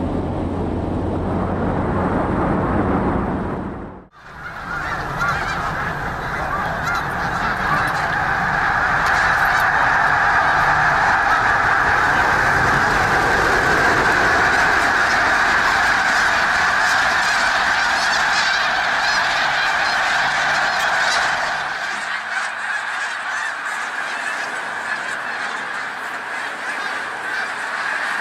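A large flock of birds calling all at once, a dense, continuous clamour that starts abruptly about four seconds in and eases slightly near the end. Before it there is a few seconds of low rumbling noise.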